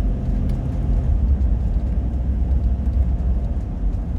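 Steady low rumble of a vehicle's engine and road noise heard from inside the cab while driving.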